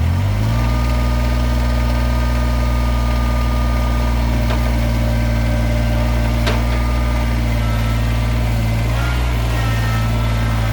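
Two-stroke Stihl Farm Boss chainsaw idling steadily, just after starting; the pitch settles within the first half second. Two faint clicks midway.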